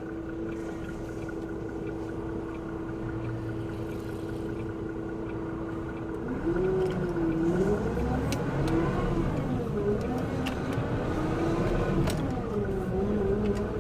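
Truck engine heard from inside the cab, idling steadily at first. About six seconds in it gets louder and its pitch rises and falls repeatedly as the truck pulls away and accelerates.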